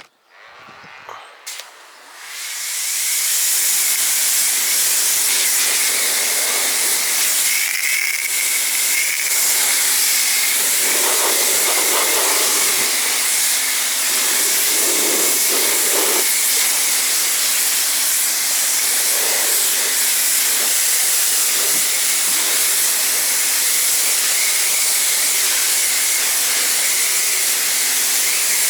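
Pressure washer spraying a rinse stream of water over a car's bodywork to wash off the soap: a loud, steady hiss with a faint motor hum underneath, starting about two seconds in, the spray noise changing now and then as it strikes different panels.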